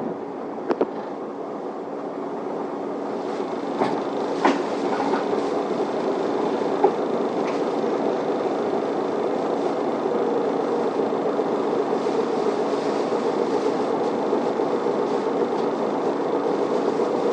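Isuzu Erga city bus heard from inside the passenger cabin: a steady engine and running hum that swells slightly over the first few seconds, with a few sharp clicks and rattles in the first seven seconds.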